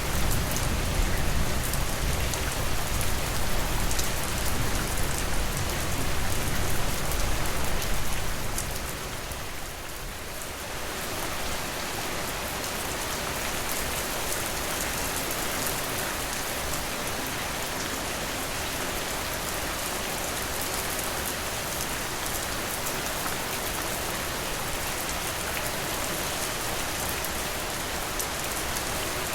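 Steady rain falling, an even hiss of drops. For the first several seconds a low rumble sits under it and the rain is louder; this fades out about eight seconds in, leaving only steady rain.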